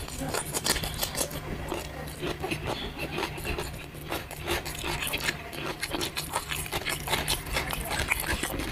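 Close-up chewing of a mouthful of fried noodles: a run of small crunches and wet mouth clicks, with a low steady hum underneath.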